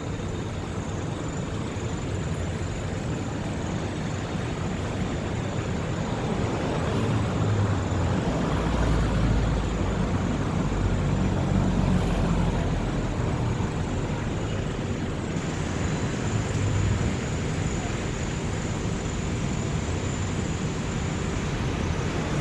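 Road traffic noise: running vehicle engines and tyres, with a low engine rumble swelling from about seven to thirteen seconds in.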